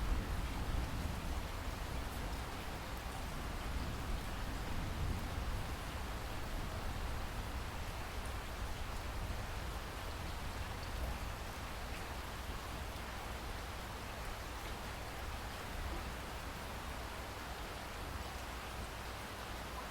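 Steady rain falling, an even hiss of drops with a low rumble underneath that eases slightly toward the end.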